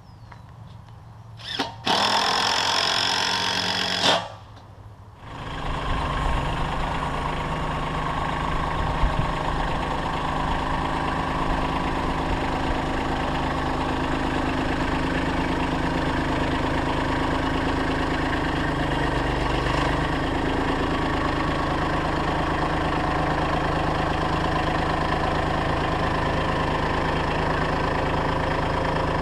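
A loud, noisy burst about two seconds in, then an engine starts about five seconds in and runs steadily.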